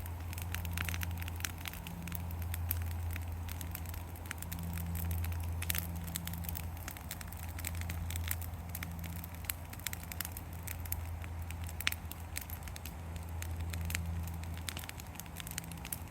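Yard-debris bonfire crackling, with many sharp irregular pops and snaps over a low steady rumble.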